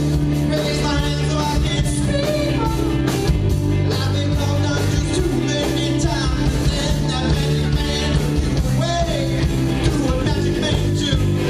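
Live rock band playing a cover, with a lead vocal over electric guitar, bass and drums keeping a steady beat.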